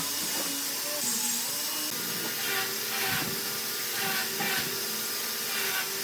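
Woodworking tool working wood over a steady hiss, with strokes repeating about twice a second from about two seconds in.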